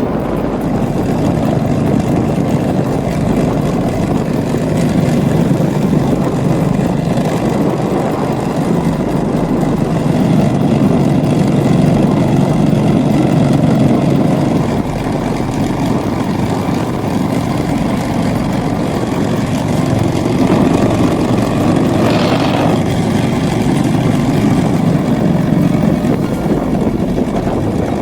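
Tractor engine running steadily under load, with a brief higher-pitched sound about twenty-two seconds in.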